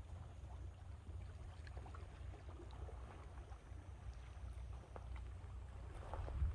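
Sea waves washing gently at the shore, with faint small splashes and trickles, under a steady low rumble of wind on the microphone that swells louder near the end.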